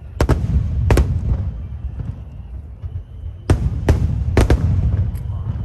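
Aerial firework shells bursting: sharp bangs, two in the first second and three more close together between about three and a half and four and a half seconds in, over a continuous low rumble of the display.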